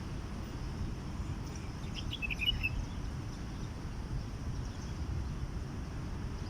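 A short run of high bird chirps about two seconds in, over a steady low background rumble.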